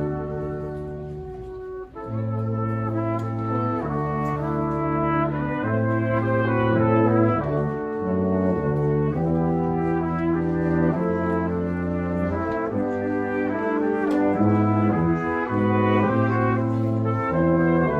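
Brass quartet playing: trumpets and trombone in held chords, with a low bass line moving underneath. The sound dips briefly about two seconds in, then the notes change every half second or so.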